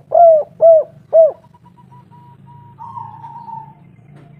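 Spotted dove cooing: three short coos in quick succession, each rising and falling in pitch, ending a call phrase in the first second and a half. A faint steady tone and a low hum follow.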